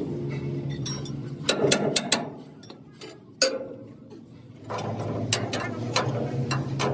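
Sharp metal knocks and clanks of workshop metalwork over a steady low machine hum. The hum cuts out for about two seconds in the middle and then comes back.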